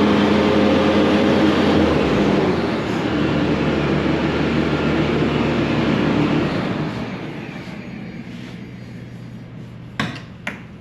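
Skid loader engine running at high revs, dropping in speed about two seconds in, then winding down over a second or so after about six seconds, leaving only a faint low hum. Two sharp knocks, half a second apart, near the end.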